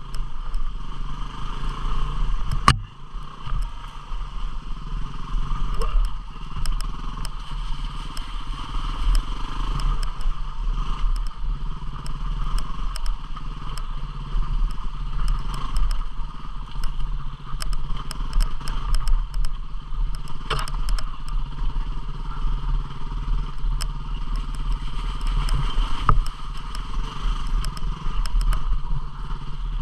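250cc single-cylinder dual-sport motorcycle engine running steadily at low trail speed, with frequent sharp clicks and clatter from stones and the bike jolting over rough ground, and a few louder knocks.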